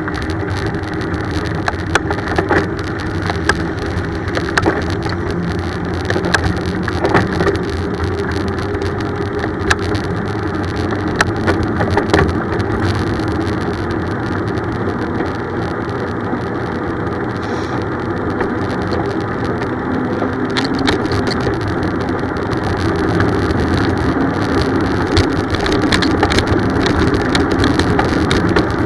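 Steady rumble of a bicycle riding along a road, with scattered sharp clicks and rattles.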